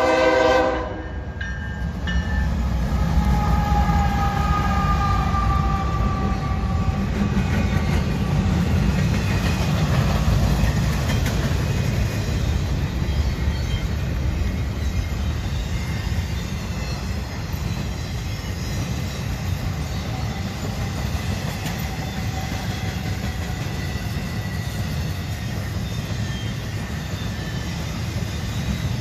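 Freight train's air horn sounding and cutting off about a second in, then the low, steady rumble of the diesel locomotives and freight cars rolling past.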